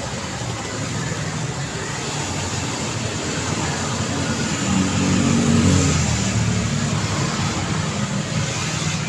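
Steady road traffic noise, with one vehicle's engine passing close and loudest about five to six seconds in.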